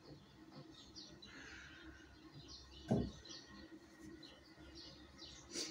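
Small birds chirping outdoors: many short, faint chirps. A single loud thump comes about three seconds in.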